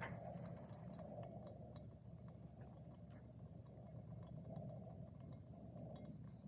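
Small wood fire burning in a fan-forced Sierra stove: a steady low rush of the blown fire with faint, scattered crackles and ticks from the burning wood.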